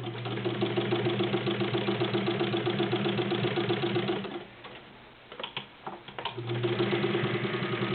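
Vintage Necchi BU sewing machine with a 1.1 amp motor, running at speed with a steady hum and fast, even needle ticking as it stitches through five layers of rubber-backed woven upholstery without hesitation. It stops a little after four seconds in, gives a few sharp clicks, then runs again about six seconds in.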